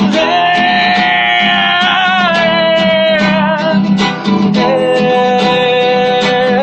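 Rock song played by a band with guitars. Two long held notes sound over a steady low accompaniment: the first starts just after the beginning and lasts about two seconds, and a lower one comes in at about four and a half seconds.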